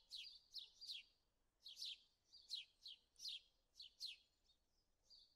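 A small songbird chirping faintly: a run of quick, high chirps, each sweeping downward, coming in twos and threes with short pauses between.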